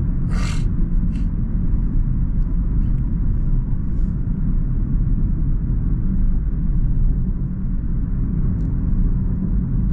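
Mahindra XUV300 SUV driving at road speed: a steady, low rumble of engine and tyres on the road, with a brief hiss about half a second in.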